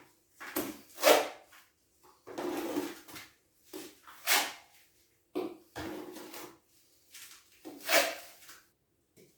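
Hand-tool scraping or rubbing on a hard surface: about nine irregular strokes, some short and a few lasting about a second.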